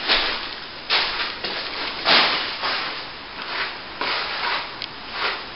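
Steel plastering trowel spreading and smoothing wet top-coat plaster over plasterboard: a series of scraping, rasping strokes, roughly one or two a second.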